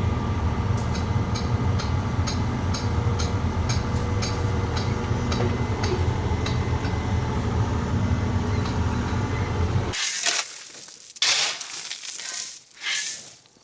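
Heavy machinery engine running steadily, with a light ticking about three times a second. It cuts off suddenly about ten seconds in, and short gritty crunching and scraping sounds follow.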